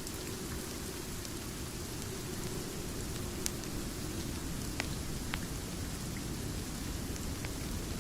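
Rain-and-fireplace ambience: steady rain hiss over a low rumbling undertone, with a few sharp crackles scattered through, about three in the middle seconds.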